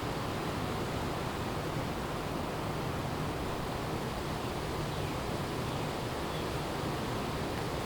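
Strong wind blowing through forest trees: a steady, even rushing noise with no birdsong audible.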